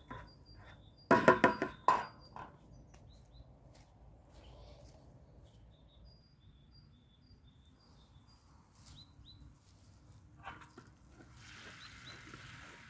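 Small birds chirping in short high notes again and again. About a second in comes a brief, loud burst of rapid pulsed animal calls, and a steady hiss comes up near the end.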